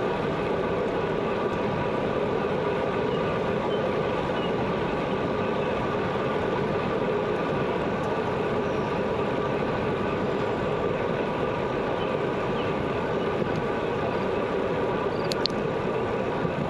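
Bicycle in motion: a steady rolling hum from the tyres and drivetrain, with a single sharp click about fifteen seconds in.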